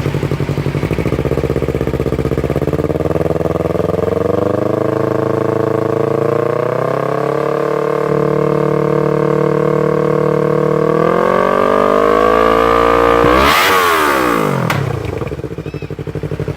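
Yamaha R3's parallel-twin engine, breathing through an aftermarket full-system exhaust with a custom-bent pipe, revved slowly up from idle and held at higher revs. It climbs once more, then drops quickly back to idle near the end.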